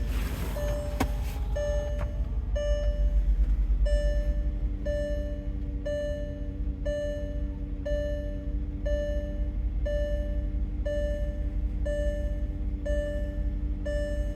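Porsche Cayenne Turbo's twin-turbo 4.5-litre V8, secondary catalytic converters deleted, running at a steady idle just after a cold start. A car warning chime rings about once a second over the engine, and there is a single click about a second in.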